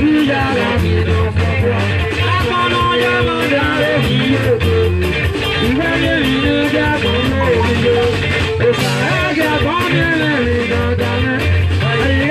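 Live band music with a steady beat: a singer over guitar and bass.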